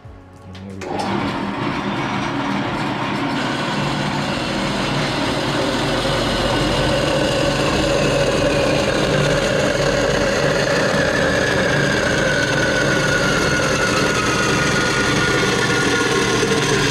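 Power saw starting up about a second in and running steadily as it cuts metal tubing, its pitch slowly falling as the cut goes on.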